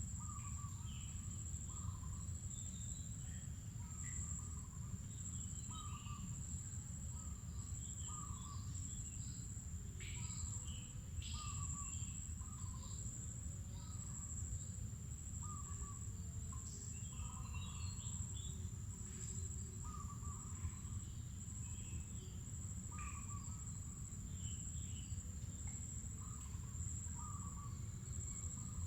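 Mangrove forest ambience: a steady high-pitched insect drone, with a short call repeating every second or two and scattered bird chirps over a steady low rumble.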